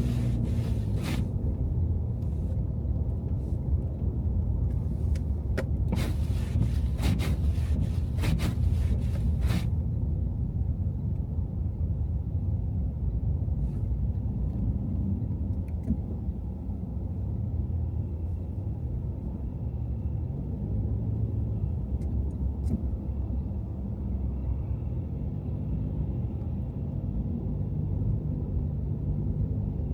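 A car driving in city traffic: a steady low rumble of engine and tyres. A scatter of irregular sharp clicks sounds during the first ten seconds.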